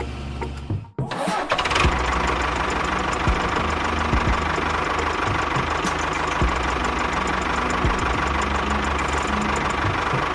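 A small motor starts about a second in and runs steadily with a whine.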